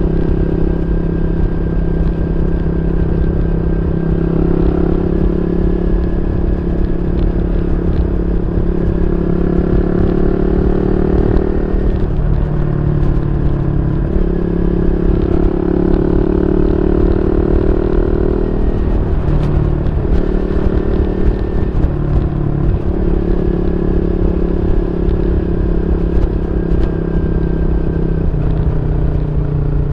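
Yamaha Y15ZR 150cc single-cylinder engine running through an aftermarket YYPANG SD3 exhaust. The engine note holds steady, and its pitch dips and comes back up several times, as when the throttle is eased and reopened.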